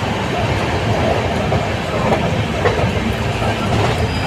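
Steady rumble of trains on the rails, with occasional wheel clicks, heard from a moving passenger train while a freight train of open steel wagons runs alongside on the next track.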